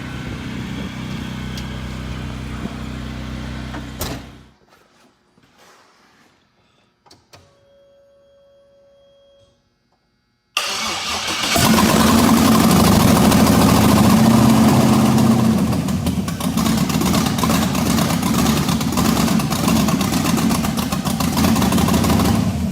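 LS-swapped V8 engine idling, then shut off about four seconds in; a few clicks and a short steady tone follow in the quiet. About ten seconds in the engine starts abruptly and runs loud until the end.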